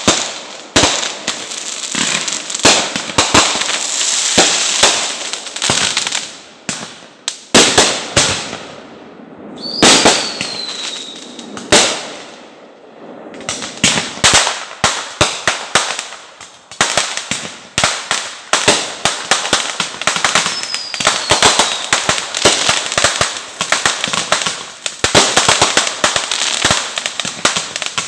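Consumer fireworks going off close by: dense rapid crackling and popping with louder bangs scattered through, easing briefly about twelve seconds in before building again. A short falling whistle sounds twice, about ten and twenty seconds in.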